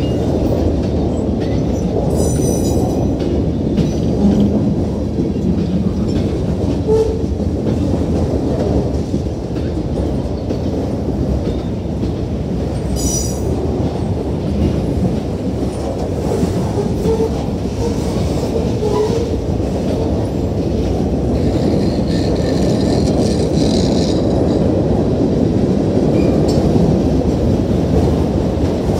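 Freight cars of a mixed freight train rolling past at track speed: a steady, heavy rumble of steel wheels on rail. Two brief sharp metallic sounds come about two seconds in and again about thirteen seconds in, and a faint high wheel squeal comes between about twenty-two and twenty-four seconds.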